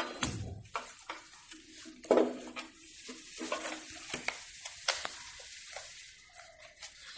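Handling noises of work on the scooter: irregular light clicks and rustling, with a louder knock about two seconds in.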